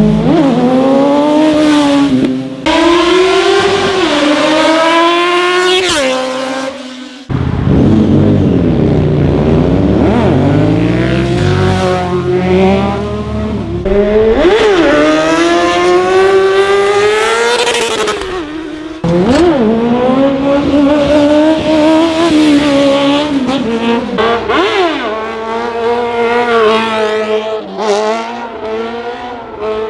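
Sportbike engines revving hard and accelerating past one after another, the pitch climbing and dropping back as they rev and change gear, in several clips cut together.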